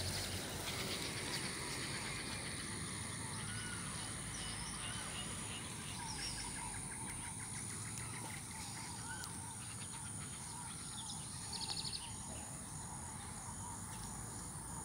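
Birds chirping and calling: scattered short chirps, a rapid trill about halfway through, and a brief fast chatter about three quarters of the way in, the loudest sound, over a steady high hiss.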